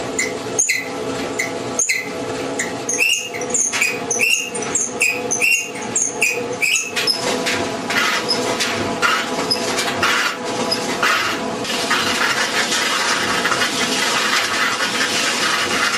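GE Hotpoint clothes dryer running noisily, its drum motor humming steadily with squeaks and clicks about twice a second, changing about halfway through to a continuous scraping rub. This noise is the sign of worn front drum glides (drum bearings).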